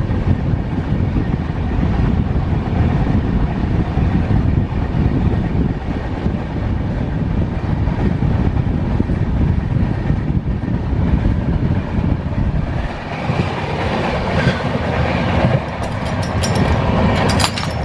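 Passenger train running along the track: a steady, loud rumble of coach wheels on the rails, with some rail clatter near the end.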